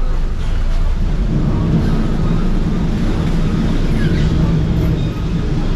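Steady low engine rumble with no sharp events.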